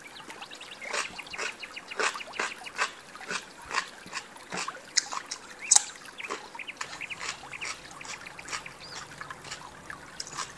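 Close-up crunching and chewing of a raw cucumber stick, with wet smacking mouth sounds: many short irregular crunches and clicks that thin out in the second half.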